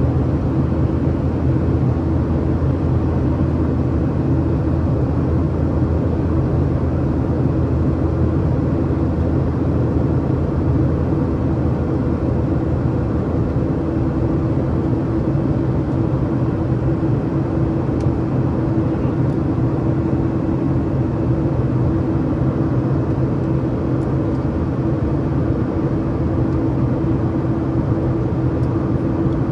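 Steady cabin drone of a Boeing 737-800 from a window seat: its CFM56 turbofan engines and airflow make an even roar with a constant low hum, holding level throughout.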